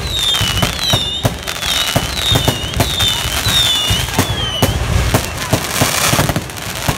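Fireworks going off: a quick string of bangs and pops, with a run of about eight high whistles that each dip in pitch over the first four and a half seconds, then a dense crackling hiss near the end.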